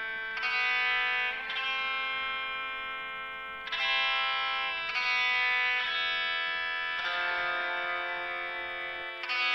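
Electric guitar playing a slow run of sustained chords through an effects unit, a new chord struck every one to two seconds and left ringing.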